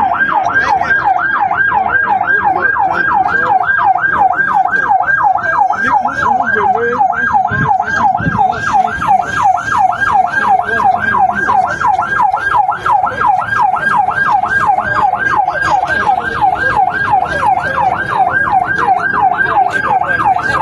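Fire engine siren sounding a fast yelp, its pitch rising and falling about two and a half times a second without a break.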